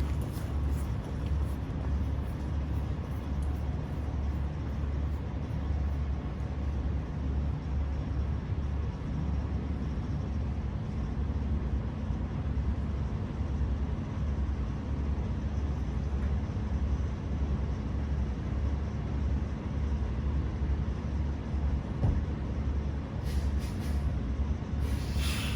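Semi-truck diesel engine running steadily at low revs, a low even rumble, with a couple of short hisses near the end.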